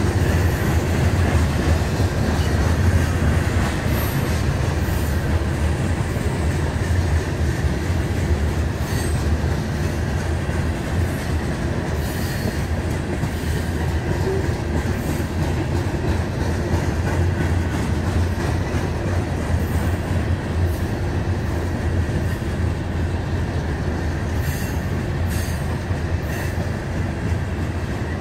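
Covered hopper cars of a freight train rolling past: a steady rumble of steel wheels on rail, with a faint high steady squeal from the wheels and scattered short clicks.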